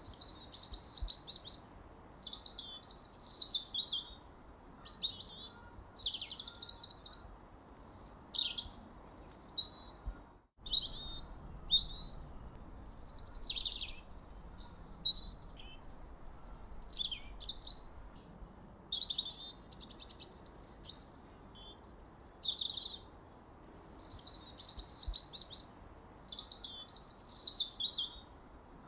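Songbirds singing: a continuous stream of short, high chirps and quick downward-sweeping trills, the sound cutting out for an instant about a third of the way in.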